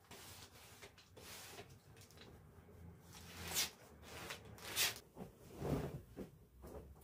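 Handling noises from cleaning work: rustling, two short hissing swishes, and a soft low thump near the end.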